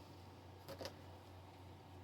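Near silence: room tone with a low steady hum and two faint clicks close together a little under a second in.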